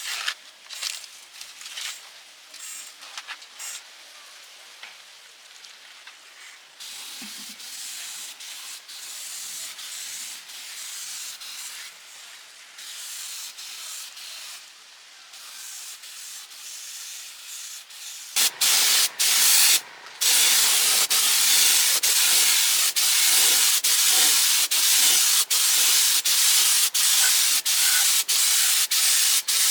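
Quieter scattered scraping and clicks, then, about 18 seconds in, a loud steady hiss of a compressed-air spray gun painting the truck chassis, cut by brief breaks about once a second.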